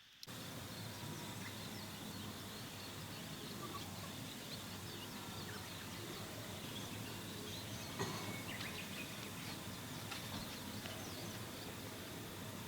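Outdoor ambience of many small insect and bird chirps over a steady background hiss, with a faint steady high insect tone and a single brief click about eight seconds in.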